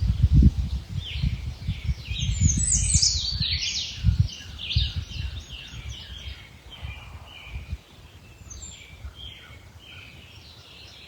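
Several wild songbirds singing and chirping, with a quick run of high notes loudest a couple of seconds in, then softer twittering. Low rumbling thuds sit underneath, mostly in the first half.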